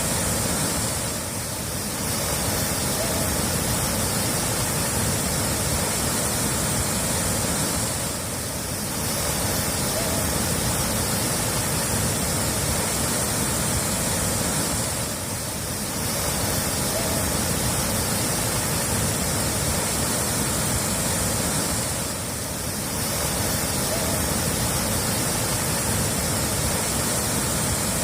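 Steady rushing of running water, an even hiss that dips briefly about every seven seconds, as the same short recording repeats.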